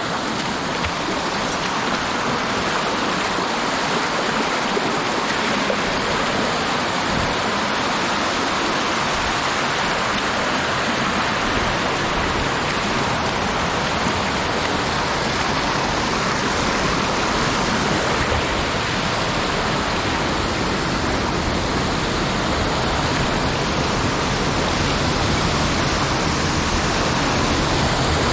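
Mountain stream rushing over rocks and small falls, a steady dense water noise.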